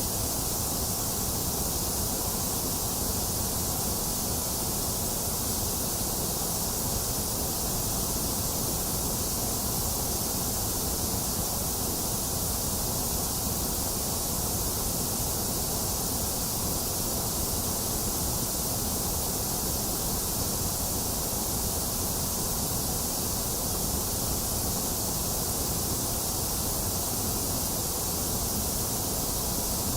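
Box fan running steadily, mixed with steady rain: an even, unchanging hiss, strongest in the high frequencies, with no thunder.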